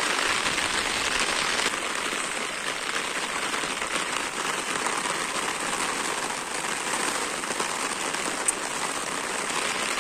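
Steady rain falling on a dirt road and the bushes beside it, an even hiss that is a little louder for the first second or two.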